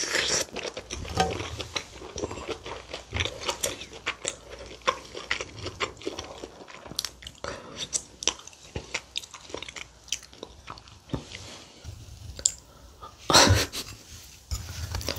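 Close-miked mouth eating sounds: chewing and lip smacking on a mouthful of kimchi stew and rice, with many small wet clicks. Near the end, a short loud rush of breath-like noise.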